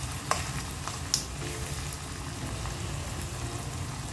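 Onion and tomato masala frying steadily in a wok. Two or three light knocks from a wooden spatula come in the first second or so.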